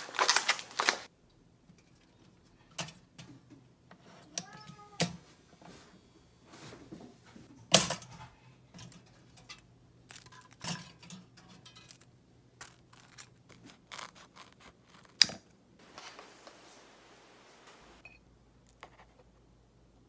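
Kitchen handling sounds: scattered clicks and knocks of dishes and utensils, with a short ringing clink about five seconds in. There is a noisy rustle in the first second and a faint hiss near the end.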